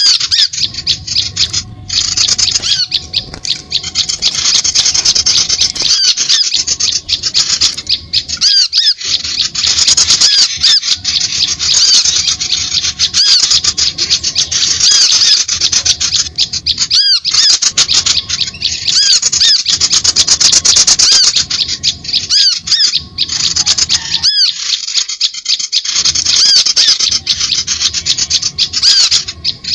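Small songbirds chattering densely, with rapid high chirps and trills coming one after another almost without a pause. It is a bird-lure recording made to attract wild birds.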